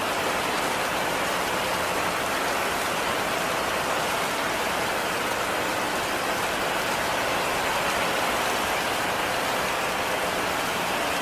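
Heavy rain falling steadily, a dense even hiss with no single drops or other sounds standing out.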